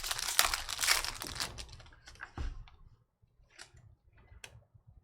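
A trading-card pack wrapper being torn open and crinkled, loud for about the first two seconds, followed by a few light clicks and taps.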